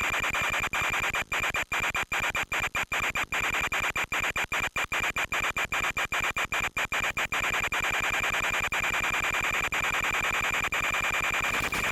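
Harsh, steady static-like noise with a constant high whine from an FPV model aircraft's onboard audio feed, cut by many brief dropouts through the middle.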